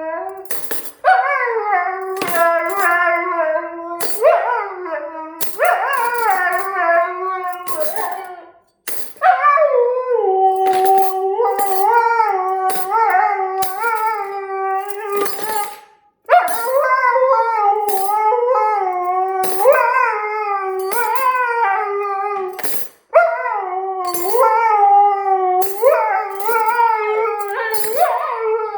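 Siberian husky howling in a run of long, wavering howls, each sliding up at the start and broken by short pauses, set off by the clinking of cutlery. Sharp metallic clinks of the cutlery sound repeatedly over the howls.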